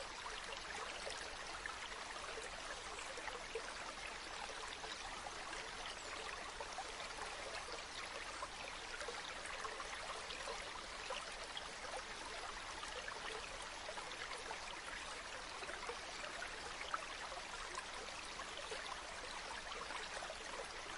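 A shallow river or stream flowing steadily over stones, with a continuous babble and many small trickling splashes.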